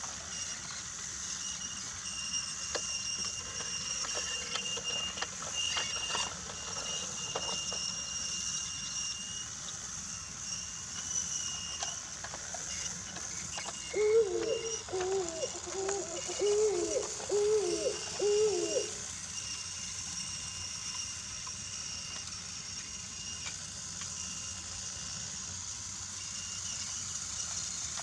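Battery-powered Brio toy train running on wooden track: a steady small-motor whine and wheel rumble, with a few clicks over the track joints. About halfway through, a run of six short hooting tones sounds, each about a second apart.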